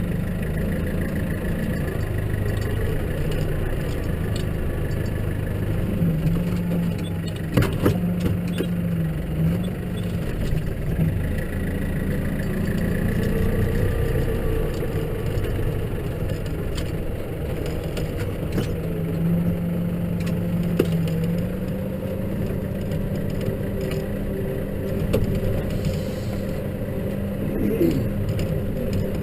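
Case tractor engine running steadily, its note stepping up and down a few times. A couple of sharp knocks about eight seconds in.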